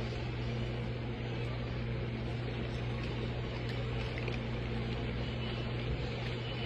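A steady low electrical hum with an even background noise, unchanging throughout.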